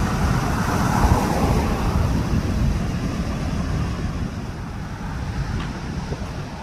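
Sea waves washing in on a beach, with wind buffeting the microphone in a low rumble; a wave's wash swells and fades over the first two seconds.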